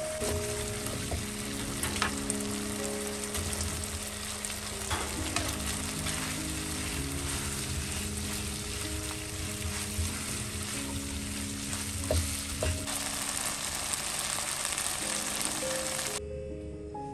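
Chicken pieces, red peppers and sausage in a thick sauce sizzling in a nonstick wok while a silicone spatula stirs them, with a few short scrapes and taps against the pan. The sizzling cuts off suddenly near the end.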